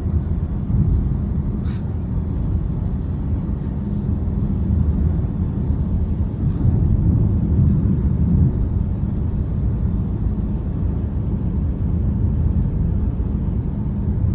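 Car driving: steady low rumble of road and engine noise.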